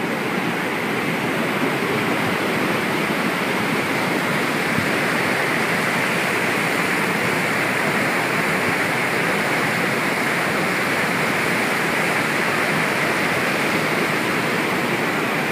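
Flooded mountain river rushing and churning close by, a steady loud roar of fast water over rocks and gravel.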